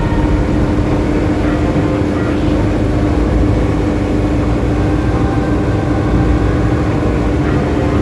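Schweizer 300 light helicopter in flight: the steady drone of its four-cylinder piston engine and rotor, with a constant hum and a dense low rumble.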